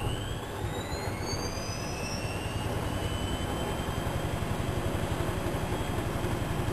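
Whirlpool washing machine speeding up its drum: the motor's thin whine rises in pitch over the first two seconds, over a rumble with a fast, even pulsing that grows slightly louder.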